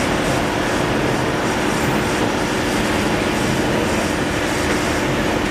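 Steady mechanical noise with a constant low hum running underneath, unchanging in level.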